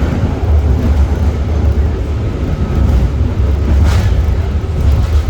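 Passenger train running, heard from inside the carriage as a steady low rumble, with a short hiss about four seconds in.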